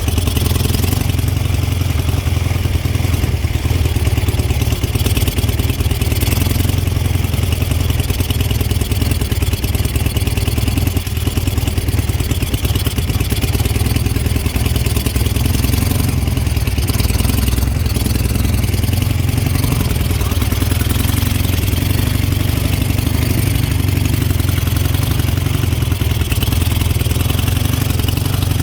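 Dnepr MT-11's flat-twin engine running steadily while the motorcycle is ridden along.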